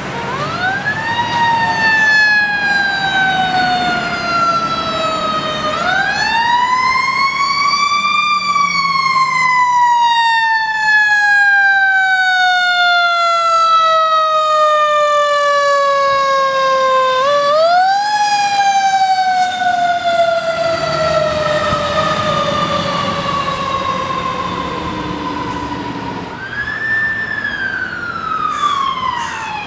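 Fire engine siren wailing: the pitch climbs quickly, then falls slowly over several seconds, four times over, with a quicker fall and rise near the end.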